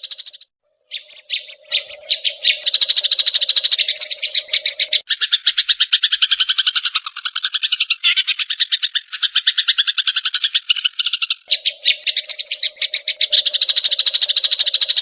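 Sparrows' fighting calls: dense rapid chirping, about ten chirps a second, with a brief break about half a second in and a lower-pitched stretch in the middle. A steady low hum runs under the chirping at the start and the end.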